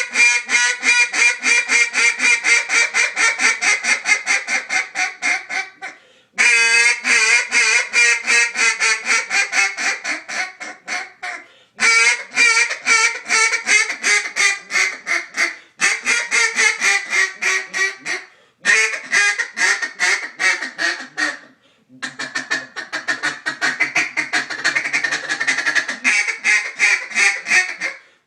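Hayes Bobwire acrylic duck call blown in a full calling routine: about six runs of rapid, loud quacks with short breaks between, the first run stepping gradually down in pitch.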